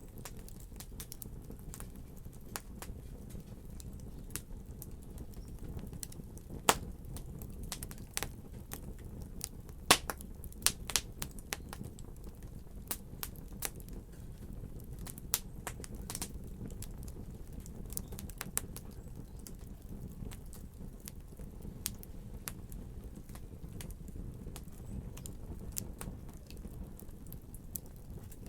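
A fire in a fireplace crackling: irregular sharp pops and snaps over a steady low rumble of the flames, with a few louder pops about seven, ten and eleven seconds in.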